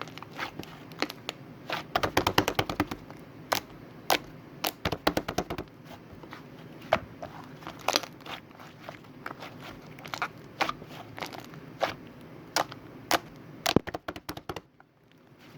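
A rapid, irregular series of sharp clicks and crackles, with a dense flurry about two seconds in and another about five seconds in, then a short lull just before the end.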